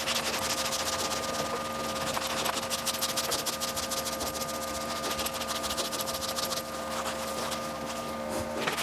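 A small motor-driven machine running steadily, with a constant hum and a fast, even ticking over it.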